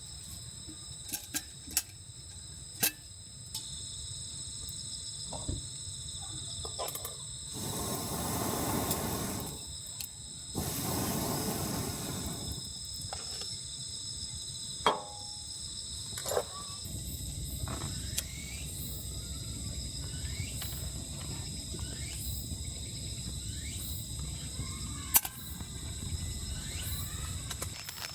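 Crickets chirping in a steady high chorus, with scattered sharp clicks and knocks and two bursts of rushing noise of a couple of seconds each about a third of the way in.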